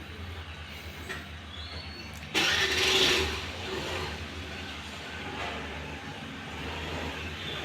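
An engine starts abruptly a little over two seconds in and keeps running, over a steady low hum.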